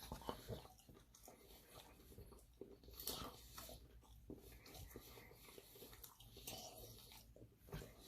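Faint close-up eating sounds: chewing and biting into a Papa John's Papadia flatbread sandwich, with a few soft, scattered crunches.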